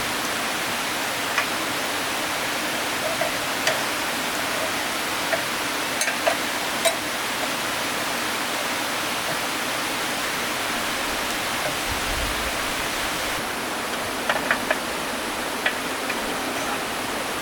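Steady rush of flowing stream water, with a few scattered sharp clicks and knocks.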